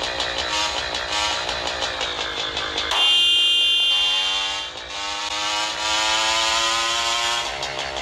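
Road traffic over background music: about three seconds in, a loud, sudden, horn-like blare lasts nearly two seconds, then an engine's pitch rises steadily as it accelerates.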